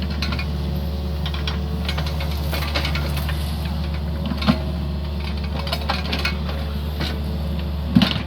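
Yanmar Vio50 mini excavator's diesel engine running steadily while it digs, with irregular clanks and knocks from the bucket and arm. Two louder knocks come about halfway through and near the end.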